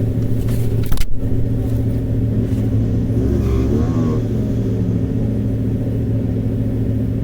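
Motor vehicle engine running with a steady low drone, with a sharp click about a second in and a brief wavering tone a few seconds later.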